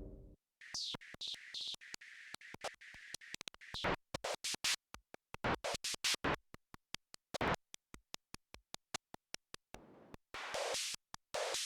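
Nord Drum 3P electronic drum synthesizer playing a simple rhythm pattern on one of its preset kits: fast, sharp click-like hits mixed with short noisy hits. Some of the noisy hits sweep down in pitch, and louder noise bursts come near the end.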